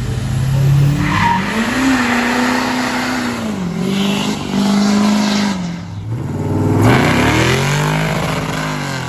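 Car engine revved hard and held high while the tyres spin and squeal in a burnout. The revs rise about a second in, dip briefly near four seconds and again near six, climb once more and fall away near the end.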